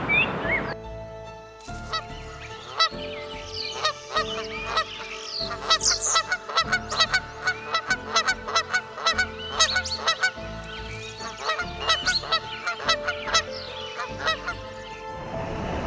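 A flock of birds calling rapidly and continuously over one another, many short calls overlapping with some held notes; it starts abruptly about a second in and ends near the end.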